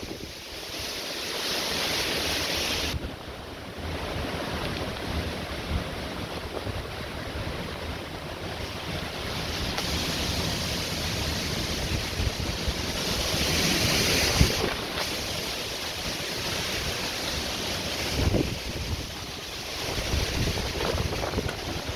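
Storm wind blowing hard with heavy rain, swelling in strong gusts about a second in and again around two-thirds of the way through, with wind buffeting the microphone.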